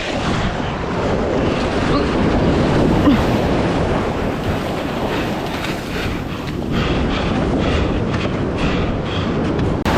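Surf breaking on the shore, a steady rushing wash of waves, with wind buffeting the microphone.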